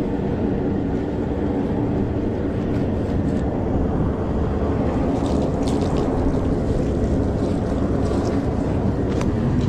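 An engine or motor running steadily, with a few faint clicks over it.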